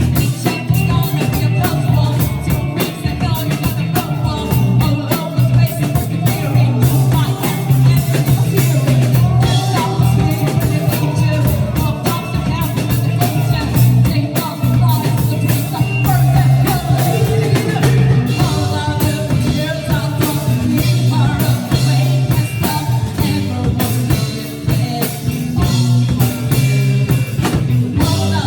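Live band playing a rock song, with a lead singer over drum kit, electric bass and guitar.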